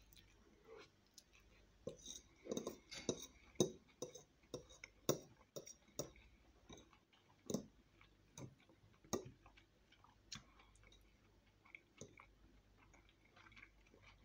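A person chewing a mouthful of spaghetti close to the microphone: a quick string of short wet smacks and clicks, busiest in the first half and thinning out toward the end.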